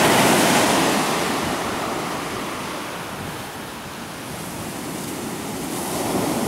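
Ocean surf: the wash of a breaking wave, loud at first, fading over about three seconds, then building again as the next wave comes in.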